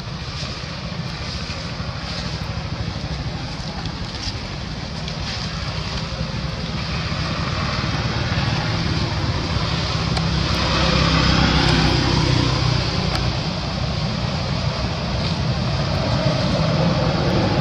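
Road traffic: a steady vehicle noise that grows gradually louder through the first half, as if a motor vehicle is approaching.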